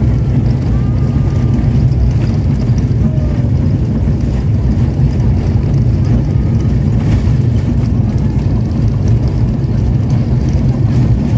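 Steady, loud low drone of an airliner's engines heard from inside the passenger cabin.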